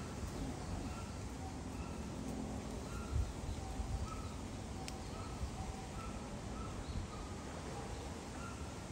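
Birds calling over steady outdoor background noise, with many short, repeated notes scattered throughout. A couple of dull low thuds stand out about three and four seconds in.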